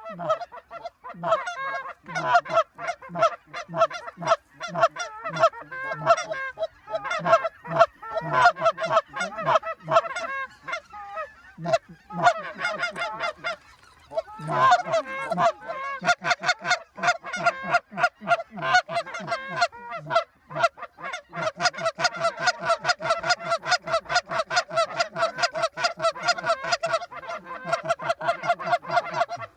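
Greater white-fronted geese (specklebellies) calling: a dense run of rapid, repeated yelps, pausing briefly about halfway through, then settling into a fast, very even series of calls near the end as the flock works in.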